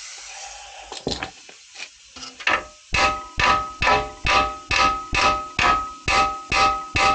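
Hammer blows on a stuck steel part, a few loose metal clanks and then, about three seconds in, steady strikes a little over two a second, each ringing at the same pitches.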